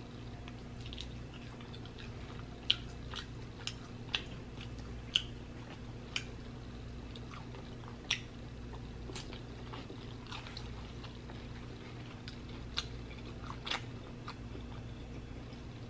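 Close-miked wet mouth sounds of eating sticky barbecue beef ribs: chewing, with about a dozen sharp, irregular lip smacks and clicks as the saucy meat is bitten and fingers are licked. A steady low hum runs underneath.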